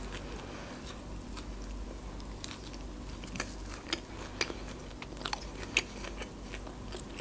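Close-miked chewing of a bite of filled flatbread, with soft mouth clicks and a few light crunches scattered irregularly through it.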